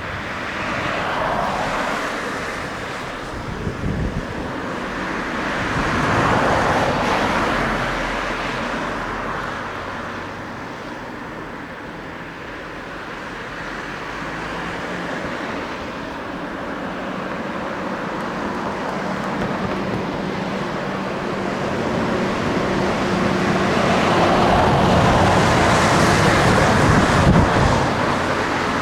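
Jet engine noise from the XC-2 transport's turbofans, swelling and fading and building to its loudest near the end, with gusty wind buffeting the microphone.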